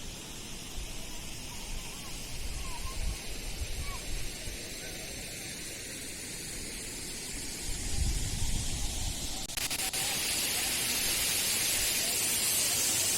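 Steady rush of water with low rumbling swells; about nine and a half seconds in it cuts to a louder, hissier rush.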